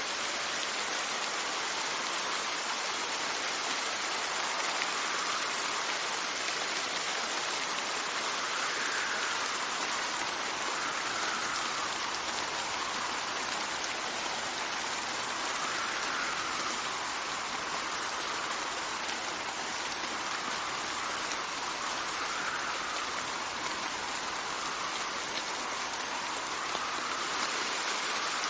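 Steady rain falling, an even hiss with soft swells every few seconds.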